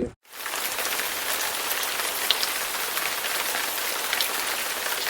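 Steady hiss of precipitation falling on a surface, with scattered faint ticks. It starts abruptly just after a short break.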